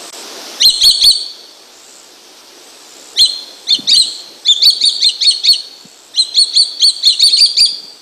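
Field recording of a swallow-tailed kite calling: high, thin whistled notes in quick runs, three notes about half a second in, then longer runs of rapid notes from about three seconds on, with short gaps between runs, over a faint steady hiss.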